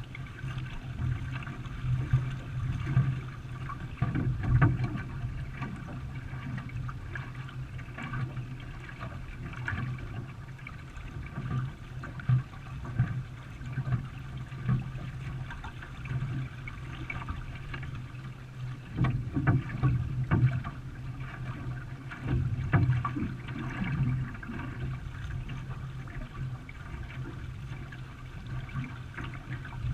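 Paddles pulling through the water and water splashing and gurgling around a racing canoe, in irregular surges over a steady low hum.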